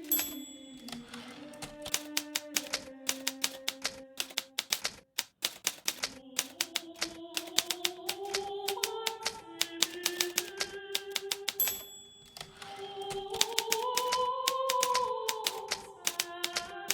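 Hermes Baby portable typewriter being typed on at a steady pace, its keys striking several times a second, with brief pauses. A short ringing ding sounds twice, about half a second in and near twelve seconds in. Soft music with sustained notes plays underneath.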